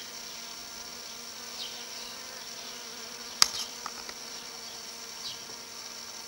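A flying insect buzzing steadily over a high, shrill insect chorus, with faint short chirps. One sharp click about halfway through.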